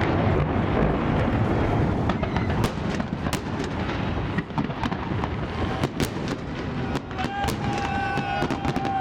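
Fireworks salute going off, sharp bangs and cracks at irregular intervals over a steady background rumble. About two seconds before the end a long, high-pitched held call joins in.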